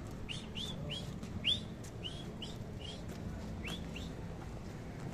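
A bird calling: a run of about nine short, hooked chirps, rising then dropping in pitch, over the first four seconds.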